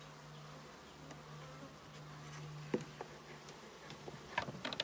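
A package of honeybees buzzing in a steady low hum, with a few sharp clicks near the end as the feeder can is worked out of the package.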